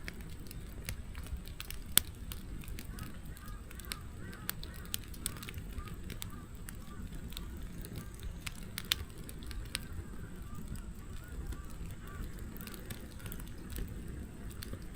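Wood fire crackling and popping over the low rush of the flames, with a sharp pop about two seconds in. Through the middle runs a faint string of short squeaky notes.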